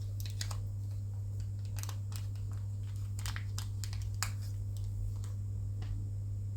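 Light scattered clicks and taps from handling small parts of a plastic model kit, over a steady low hum.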